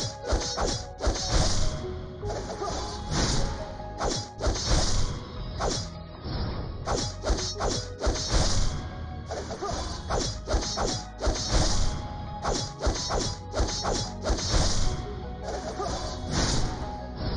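Repeated sharp impacts, about one or two a second, over background music.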